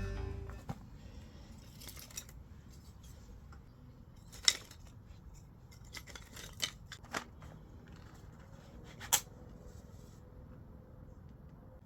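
A handful of short, sharp clicks and snips over a quiet background, the loudest about four and a half seconds in and again about nine seconds in.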